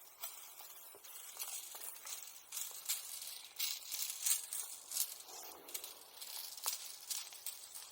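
Irregular crackling and snapping from a wood bonfire's embers, with a light hiss and rustling between the sharp pops.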